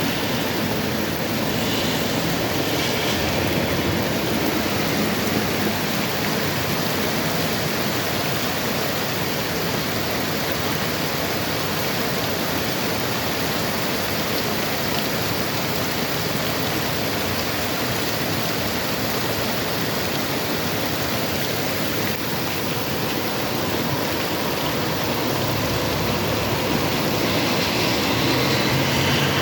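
Steady rain falling, an even hiss with no break. A low rumble swells under it briefly about two seconds in and again near the end.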